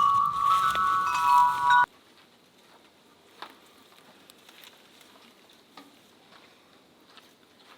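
Chimes ringing in several steady, overlapping notes that cut off abruptly about two seconds in. After that there is only faint quiet ambience with a few light ticks.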